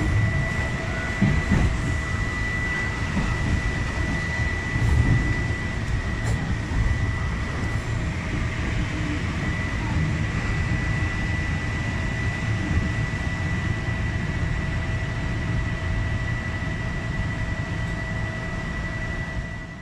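Inside the driver's cab of an electric train running into a terminal platform: a steady low rumble of the wheels on the track, with a constant high hum from the train's equipment.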